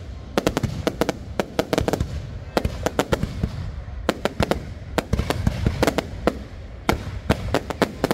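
Fireworks going off in rapid clusters: many sharp bangs and crackles, several a second, over a continuous low rumble of distant explosions.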